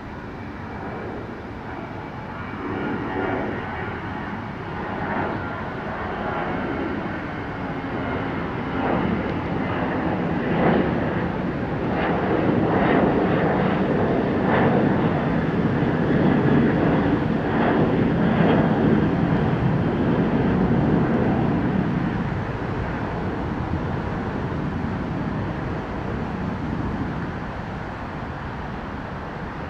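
Jet airliner's engines at takeoff thrust as it departs and climbs past. The roar builds, is loudest in the middle, and then fades away.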